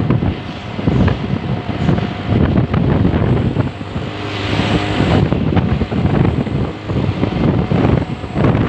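Road traffic with heavy trucks' diesel engines running and passing, and wind buffeting the microphone.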